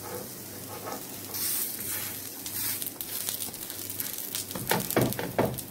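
Besan-battered bread slices shallow-frying in a little oil on a flat nonstick pan over low heat, sizzling steadily, with a louder spell of sizzle about a second and a half in. Near the end come a few light knocks of a metal spatula against the pan.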